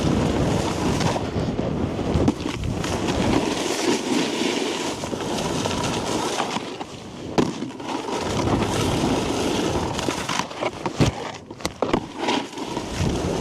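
Snowboard riding over packed snow: a steady scraping hiss from the board's base and edges, with wind on the microphone, broken by several sharp knocks.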